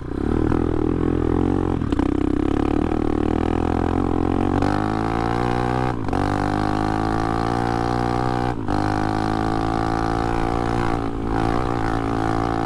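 Off-brand Chinese 250cc dirt bike engine running while riding. Its pitch climbs about four and a half seconds in, and the sound breaks off briefly twice, about six and eight and a half seconds in.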